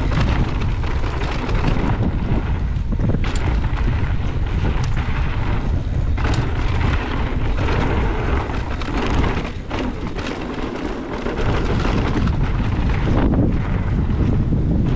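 Heavy wind buffeting the microphone of a camera on a mountain biker riding at speed, a loud rumbling roar with a few sharp knocks mixed in.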